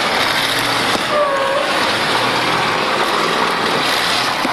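Demolition derby cars' engines running together in a steady, loud wash of noise, with a faint rise and fall in pitch about a second in.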